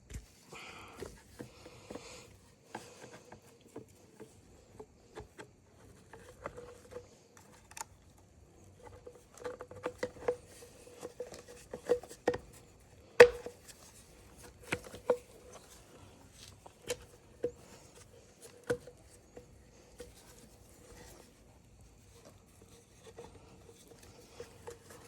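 Irregular clicks and taps of small tools and chainsaw parts being handled on a workbench, the loudest click about 13 seconds in, over a faint steady hum.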